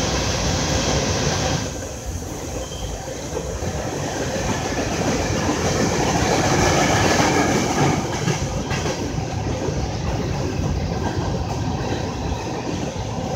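A CSX freight train of coal cars rolling past, its steel wheels running on the rails in a continuous rumble, loudest in the first second and a half and again around the middle.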